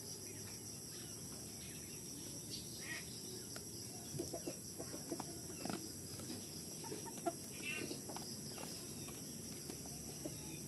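Chickens clucking on and off, with scattered short calls, busier in the middle stretch.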